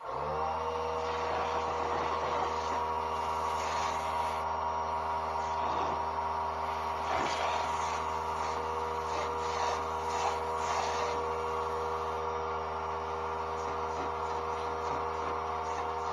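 A motor switches on, spins up within half a second and runs steadily with a hum, with scratchy noise over it in the middle.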